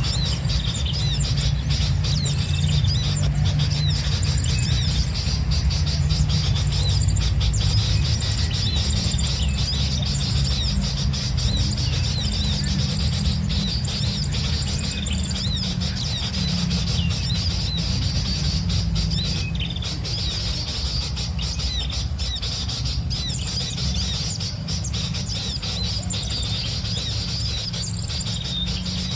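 Small wild birds chirping and calling repeatedly in quick, short notes, over a steady low rumble.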